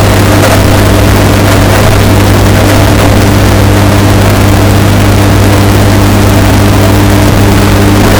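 Washing machine running with a steady low hum, bass-boosted and distorted to near clipping, with faint irregular ticks over it.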